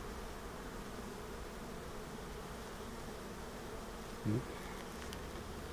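Honeybees buzzing steadily around an open hive while its frames are pulled for inspection. A brief low rising sound comes about four seconds in.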